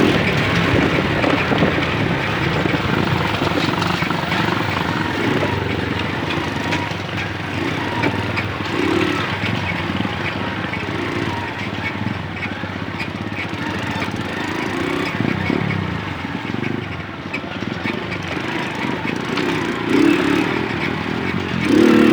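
Moped engine running while riding, its note swelling briefly now and then.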